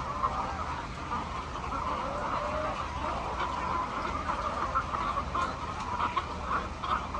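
A flock of hens clucking, many short calls overlapping, over a steady low hum.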